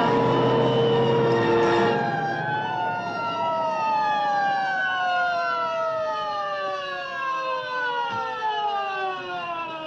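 A siren winding down, its pitch falling slowly and steadily over several seconds. Film music with held notes stops about two seconds in, before the siren's pitch starts to fall.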